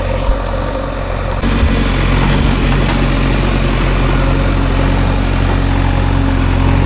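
Heavy diesel engine running steadily near the microphone, picking up revs and getting louder about a second and a half in, then holding there.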